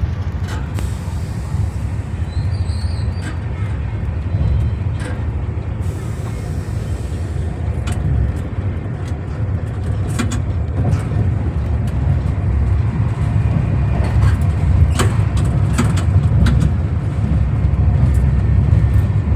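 Moving train running along the track: a steady low rumble with scattered clicks and clanks, getting a little louder in the second half.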